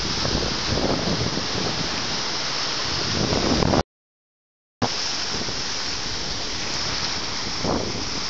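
Wind buffeting the microphone over surf at the shore, a steady rushing noise. It drops to dead silence for about a second near the middle, then resumes.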